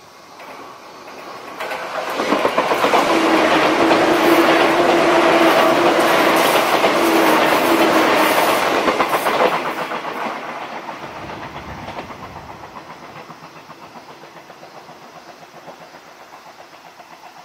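Izu Kyuko Resort 21 'Kinme Train' electric multiple unit passing at close range: a rush of wheel-on-rail and running noise builds from about two seconds in and is loudest for several seconds with a steady hum-like tone in it. It then fades with a regular clickety-clack of wheels over the rail joints as the train moves away.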